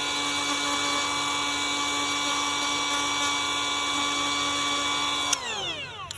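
High-speed power grinder or drill running with a steady high whine, grinding out small pits in a fiberglass hull. About five seconds in it is let off and winds down in pitch, then spins straight back up near the end.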